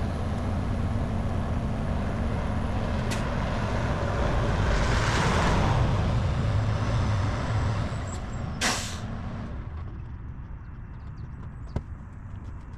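Semi truck engine idling with air hissing: a swell of hiss in the middle and a short, sharp blast of air just before 9 s, after which it is quieter, with a few sharp clicks along the way.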